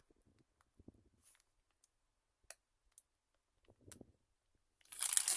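Firework packs being handled: a few light clicks and soft taps, then near the end a loud crinkling of plastic wrapping.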